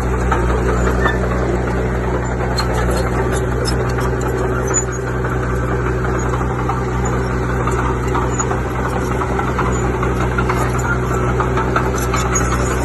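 Bulldozer's diesel engine running steadily under load, with scraping and light clicking from the tracks and blade over it.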